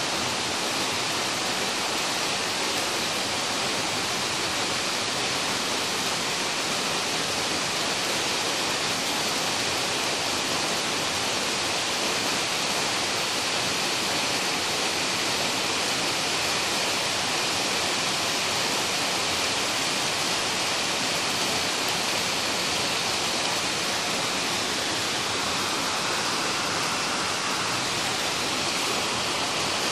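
Rain pouring down steadily: a dense, even hiss with no let-up.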